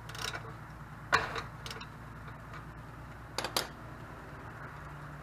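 A few sharp clicks and taps of hand tools working the reservoir drain plug: one near the start, one about a second in, and a close pair around three and a half seconds in, over a steady low hum.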